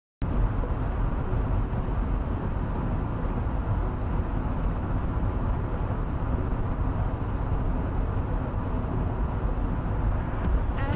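Steady rain and a low road rumble, heard muffled from inside a car's cabin.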